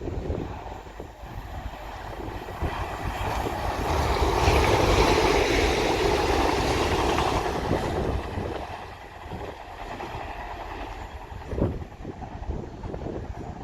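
Diesel multiple unit passenger train passing on the line, its rumble and wheel noise on the rails building to a peak a few seconds in, then fading as it goes by.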